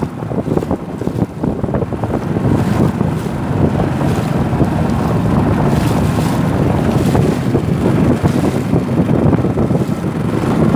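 Strong wind buffeting the microphone, with choppy river water washing against a canoe underneath.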